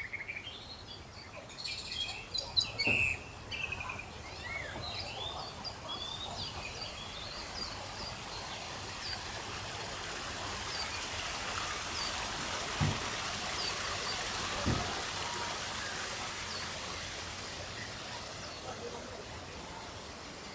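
Small birds chirping, with several calls overlapping in the first few seconds, then thinning to single high chirps about once a second, over a steady background hiss. Two soft low thumps come about two-thirds of the way through.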